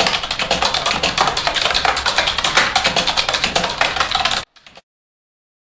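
Rapid, dense clicking like keys being typed, which stops suddenly about four and a half seconds in and is followed by a second of silence.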